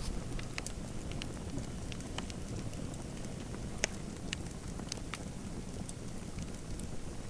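Fireplace fire crackling: a steady low rumble with irregular sharp pops, the loudest about four seconds in.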